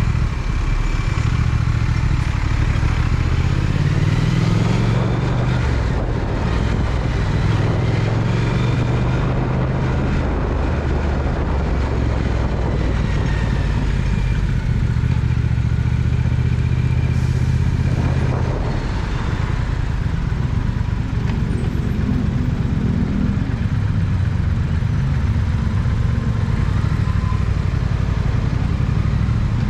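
Triumph Speed Twin's parallel-twin engine running on the move, its pitch rising through the gears a few seconds in and dropping about two-thirds of the way through, with steady wind and road rush.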